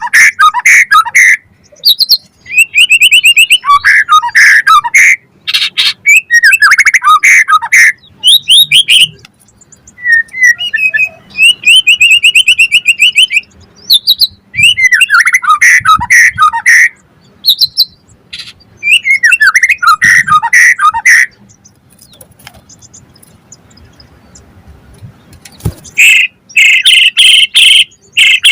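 White-rumped shama (murai batu) singing loud, varied phrases of whistles, fast trills and rapidly repeated notes. The song breaks off for about four seconds before resuming near the end.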